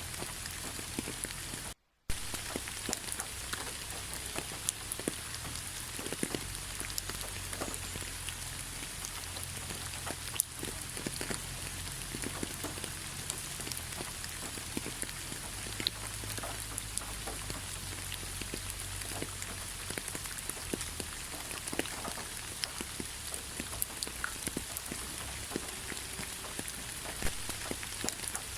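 Steady rain, with many separate drops ticking and pattering over an even hiss and a low rumble. The sound cuts out to silence for a moment about two seconds in.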